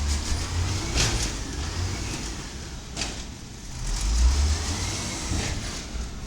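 1999 Volvo diesel automated side-loader garbage truck running, its engine rumble swelling as it revs about a second in and again near the end, with two sharp bangs about a second and three seconds in.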